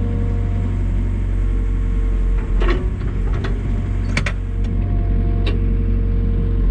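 Komatsu excavator's diesel engine running steadily while the operator cycles the hydraulics, with a steady whine over the engine and several sharp knocks from the moving arm.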